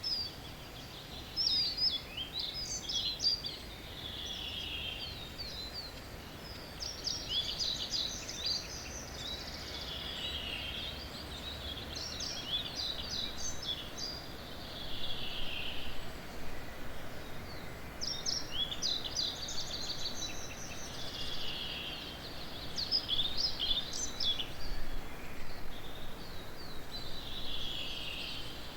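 Songbirds singing in an early-morning dawn chorus: one bird repeats a short phrase of quick high notes about every four to six seconds, over a faint steady background noise.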